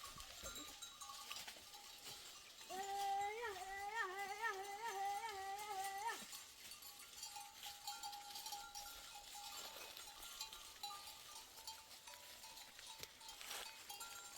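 A goat gives one long, wavering bleat lasting about three seconds, over the faint ringing of livestock bells.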